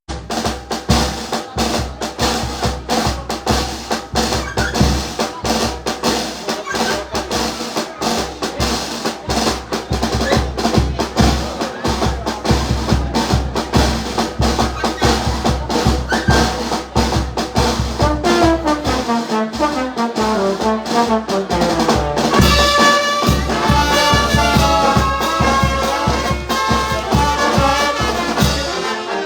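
Brass-band music with trumpets, trombones and drums on a steady beat; past the middle a run of notes slides downward, then higher held brass notes follow.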